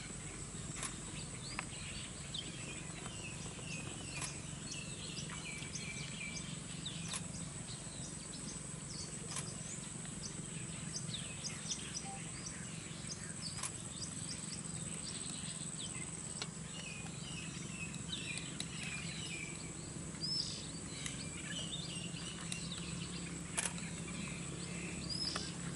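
Outdoor bird ambience: many short bird chirps and twitters over a steady high insect whine and a low steady hum, with scattered sharp ticks.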